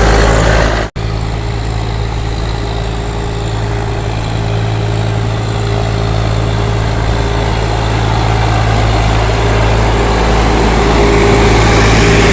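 Swaraj 744 XT tractor's diesel engine running steadily under a sugarcane trailer load, with a brief dropout about a second in.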